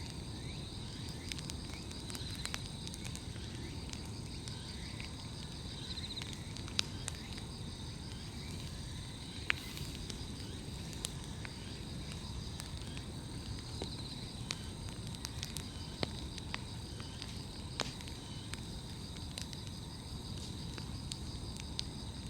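Wood bonfire crackling, with scattered sharp pops, under a low steady rush; a steady chorus of trilling insects runs over it.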